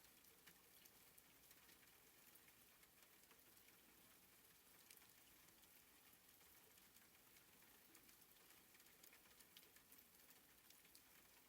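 Soft, faint rain falling steadily, with scattered light drop ticks.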